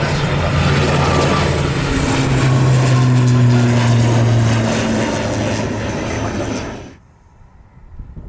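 Loud jet airliner engine noise, with a low hum that shifts in pitch as the aircraft passes, cutting off suddenly about seven seconds in.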